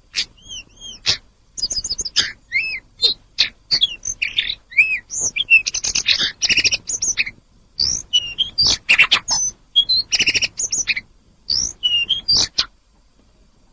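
Tledekan gunung songbird singing a fast, varied run of chirps, whistled notes and short trills in quick phrases, with brief pauses between them.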